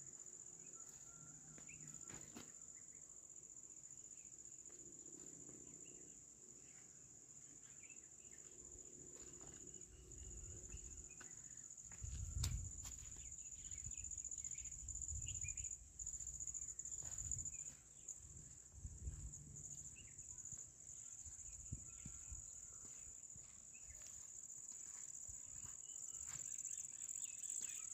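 Crickets trilling in one continuous high-pitched drone. A low rumble of wind on the microphone comes and goes through the middle.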